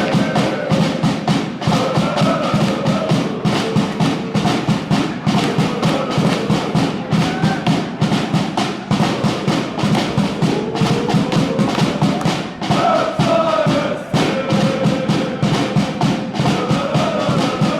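Football ultras chanting together to a fast, steady drumbeat.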